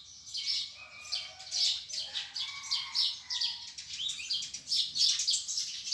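Small birds chirping rapidly and continuously in quick, high, overlapping chirps, with a few longer, lower notes in the first half.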